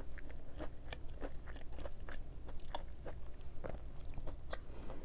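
Close-up chewing of crispy breaded plant-based fried chicken nuggets, with small irregular crunches about three a second.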